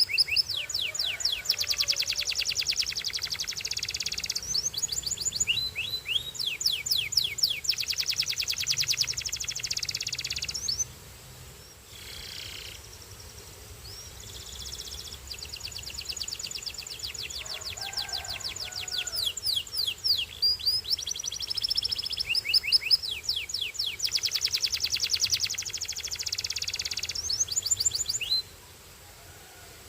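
A canary singing: long phrases of rapid, high trills and quick sweeping notes. The song breaks off for a few seconds about eleven seconds in, then resumes, and stops shortly before the end.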